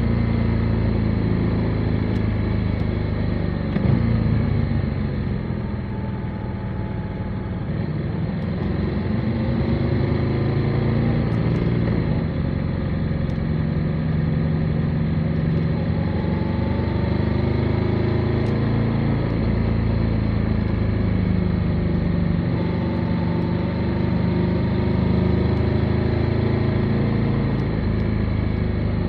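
Motorcycle engine running on the move, its note rising and falling with throttle and gear changes. It eases off briefly about five seconds in, then picks up again.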